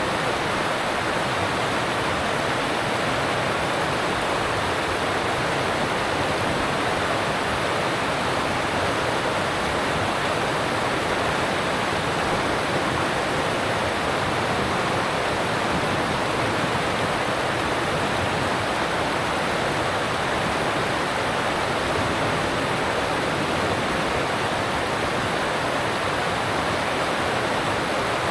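Alpine stream rushing over rocks: a steady, even rush of water with no change.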